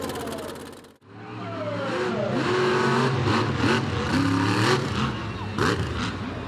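Monster truck engine running. The sound fades out about a second in, then returns as the engine runs low and revs up and down, with several sharp knocks.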